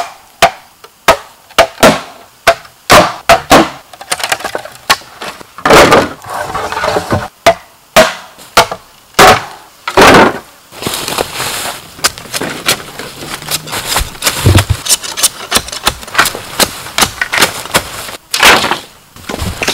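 Bamboo being chopped and struck with a blade: a run of sharp, irregular blows, about one or two a second, with a few longer cracking noises among them.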